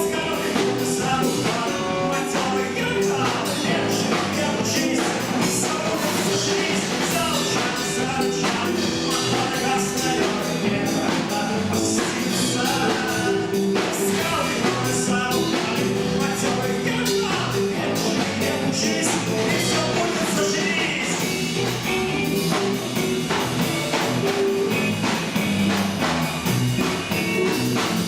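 A rock band playing a song with a full drum kit, in a stretch without sung lyrics.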